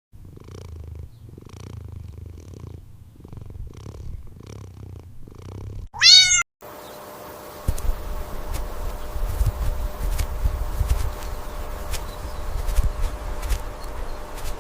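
A domestic cat purring in a slow, even rhythm, with one short, loud meow about six seconds in. After the meow the purring is louder and rougher.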